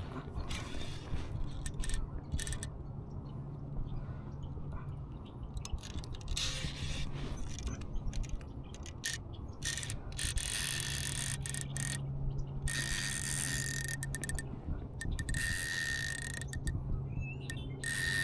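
A BFS baitcasting reel's drag buzzing in repeated runs of a few seconds each, as a big salmon pulls line off against the tightened drag. The runs grow longer and steadier in the second half.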